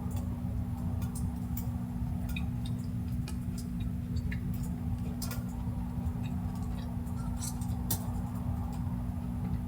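Sparse, irregular light clicks and ticks, roughly one or two a second, over a steady low hum.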